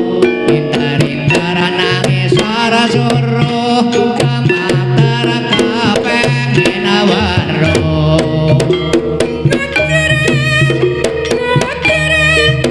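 Banyumasan gending for jaranan played live through a sound system: pitched gamelan melody over quick hand-drum (kendang) strokes. A deep, heavy bass comes in a little past halfway.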